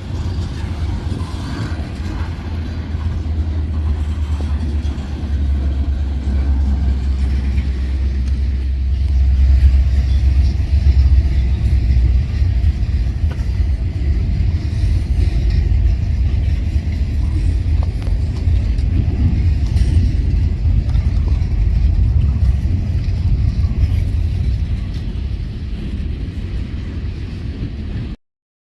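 Norfolk Southern freight train moving: a steady low rumble that swells about nine seconds in, eases off near the end and then cuts off suddenly.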